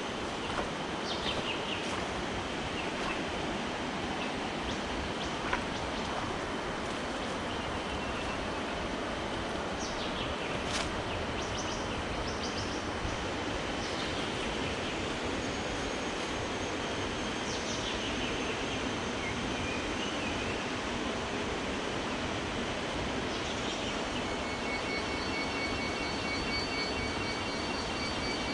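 Steady rush of a waterfall, with a few short bird calls over it and a steady high-pitched trill joining near the end.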